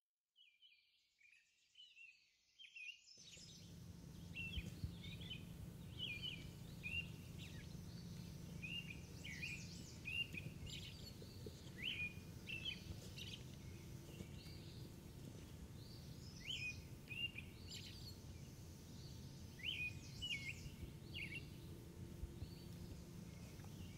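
Small birds chirping in short, repeated calls, faint at first. About three seconds in, a steady low outdoor background hiss comes in beneath them.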